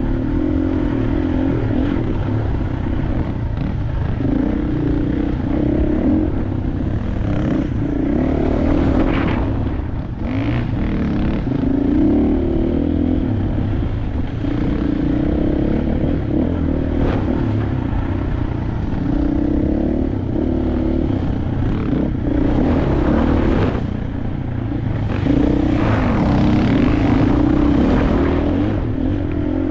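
KTM 500 dirt bike's single-cylinder four-stroke engine running under riding load, its pitch rising and falling as the throttle is worked, with several louder noisy surges.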